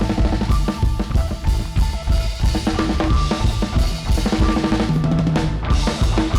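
Live rock band playing an instrumental passage, with a full drum kit (kick and snare) driving it under guitar and bass.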